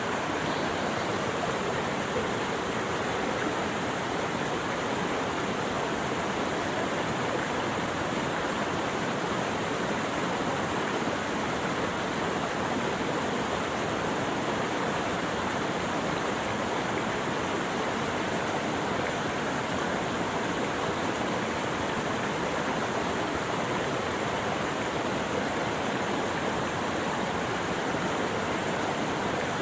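Steady rushing of flowing water, an even unbroken wash of sound with no calls or splashes standing out.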